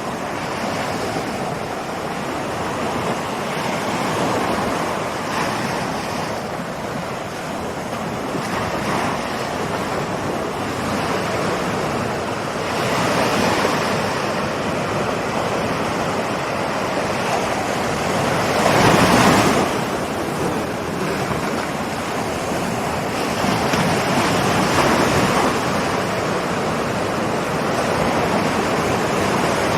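Ocean waves breaking and washing on a shore, in swells every few seconds, with one louder wave breaking about two-thirds of the way through.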